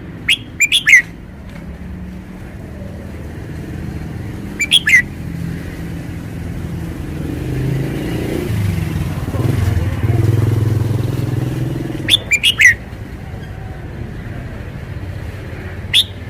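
Red-whiskered bulbul calling in short bursts of two or three quick notes, four times, while a passing motor vehicle's low rumble grows louder through the middle and then fades.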